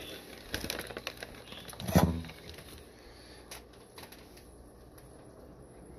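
Scattered light clicks and taps from plastic shipping bags of fish being handled and set down, with one louder knock about two seconds in.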